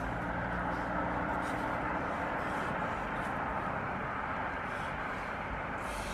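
Steady background noise with a faint low hum that fades out over the first couple of seconds.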